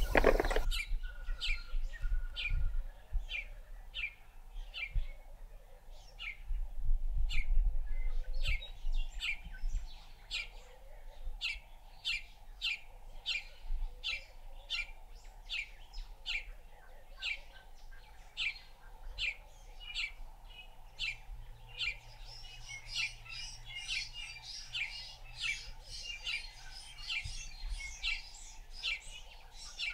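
A bird calling in short, high chirps repeated about twice a second, joined by denser high chirping from about two-thirds of the way in. A single sharp knock at the very start.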